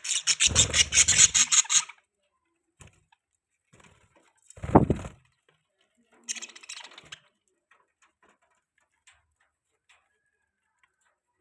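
Budgies in their cage making scratchy, rasping sounds: a fast series for about two seconds, a short louder knock near the middle, then another brief rasping burst.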